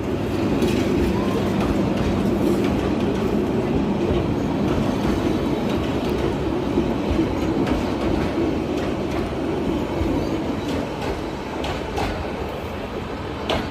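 A train running on the track: a steady rumble of wheels on rails, with a few sharp clicks near the end.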